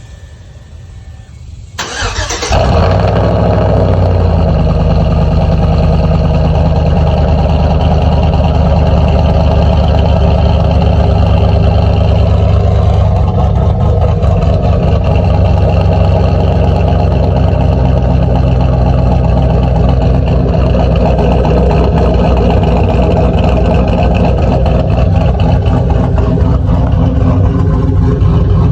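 Cold start of a 2013 Chevy Tahoe PPV's V8 with a stage 2 cam and dual exhaust. About two seconds in the engine cranks and catches with a loud flare in revs that falls away within a second or two, then settles into a steady, loud idle.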